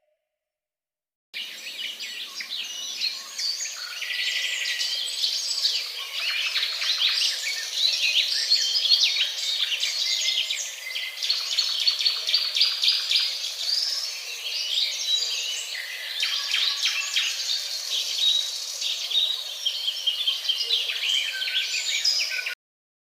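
Many small birds chirping and twittering together in dense, overlapping calls. It starts about a second in and cuts off suddenly near the end.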